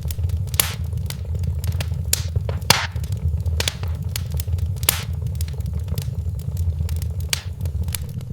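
Wood fire in a fireplace crackling, with a steady low rumble underneath and frequent sharp pops, several of them loud.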